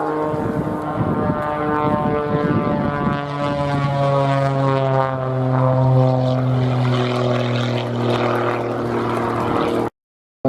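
Muscle Pitts aerobatic biplane's propeller engine running at display power as it flies, a loud steady drone whose pitch slowly falls.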